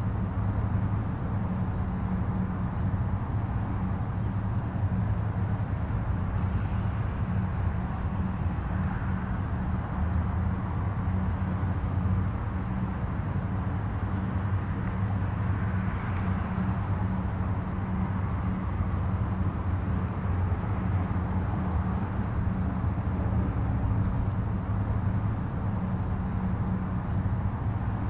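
Distant highway traffic: a steady low rumble of tyres and engines, with a vehicle now and then swelling slightly louder and fading.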